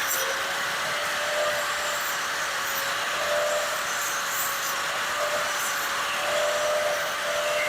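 A motor-driven machine running steadily: a constant whine that wavers slightly, with a hiss over it.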